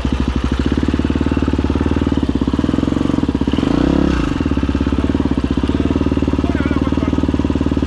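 Enduro dirt bike engine idling with an even, rapid beat, given one short blip of throttle about halfway through that rises and falls back to idle.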